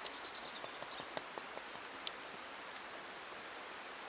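Knife blade cutting into wood while carving feather sticks: a run of short, irregular sharp clicks in the first two seconds, then only a steady background hiss.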